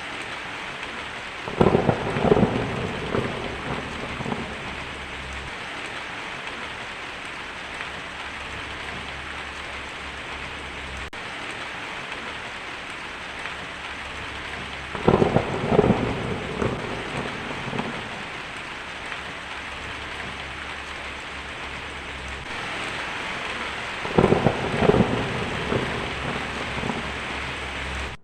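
Heavy rain drumming steadily on a tin roof, with three rolls of thunder: one about a second and a half in, one about halfway through, and one near the end, each fading over a couple of seconds.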